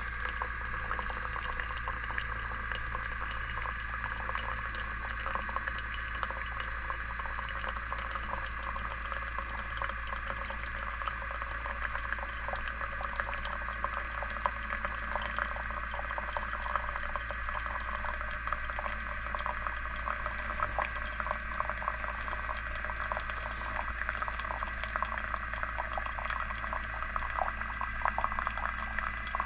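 GEVI pour-over coffee machine pumping water heated to about 208°F through during a hot-water pump test: a steady pump hum under water trickling and dripping. The small spatters and drips grow busier near the end.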